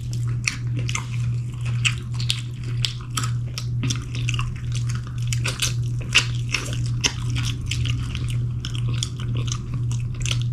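Close-up chewing and biting into fried chicken wings: a dense, irregular run of crunches and wet clicks, over a steady low hum.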